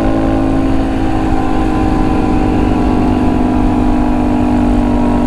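Onboard sound of a 2019 Honda Monkey 125's small air-cooled single-cylinder engine running at a steady cruising speed on a track parade lap, its note holding nearly constant.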